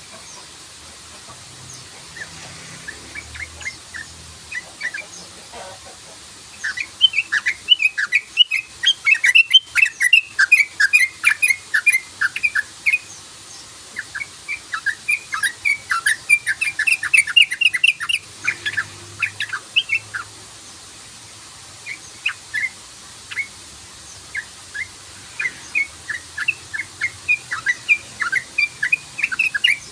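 Yellow-vented bulbul (trucukan) calling in long runs of quick, short chirps, several bouts with short pauses between them.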